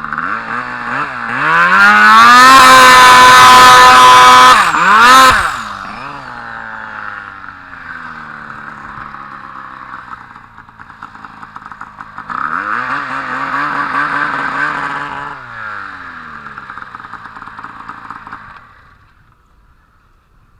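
Turbocharged Arctic Cat M1000 two-stroke snowmobile engine revving hard, its pitch climbing to full throttle about two seconds in with a short blip after, easing off, then surging again around twelve seconds before fading away near the end.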